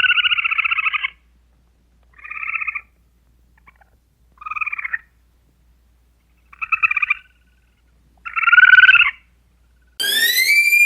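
An animal calling five times in short, buzzy, trilling croaks, each under a second long, with gaps of about a second and a half between them. Near the end a different high whistle starts, rising and then falling in pitch.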